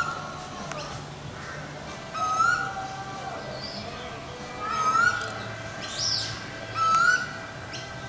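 Bird calls: a short, clear, upward-sliding whistle repeated four times, about every two and a half seconds, with a brief higher chirping call around six seconds in.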